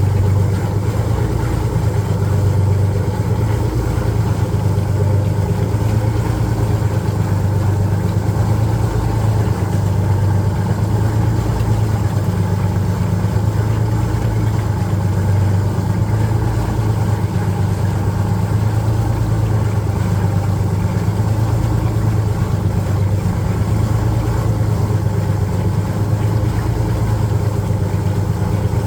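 Detroit Diesel 6-71TI two-stroke inline-six diesel idling steadily after a cold start with no block heater. The engine has low compression (350–375) and is nearing a rebuild.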